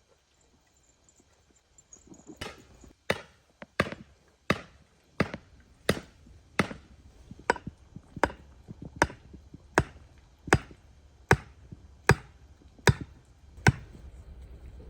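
A hand tool striking over and over in a steady chopping rhythm: about sixteen sharp blows, one every three-quarters of a second or so, starting about two seconds in and stopping near the end.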